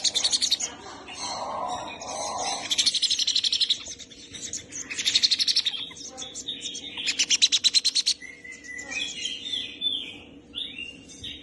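Sun conure calling: four bursts of fast, rattling high chirps about two seconds apart, followed near the end by shorter calls that slide down in pitch.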